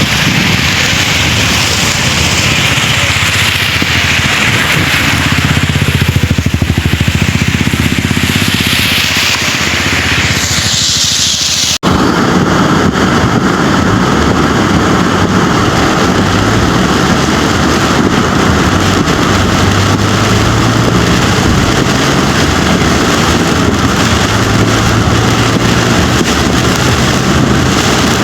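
Heavy monsoon rain and rushing floodwater, a loud steady hiss. It cuts off abruptly about twelve seconds in to another stretch of rushing noise with a steady low hum under it.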